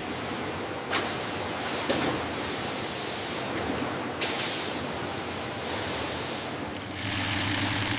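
Steady hissing noise whose character changes abruptly every second or two.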